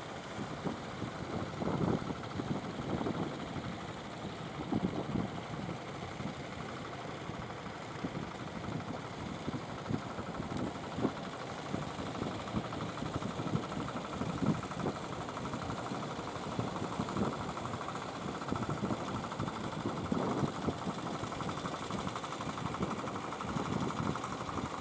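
Fishing boat engine running steadily, its level swelling and dipping.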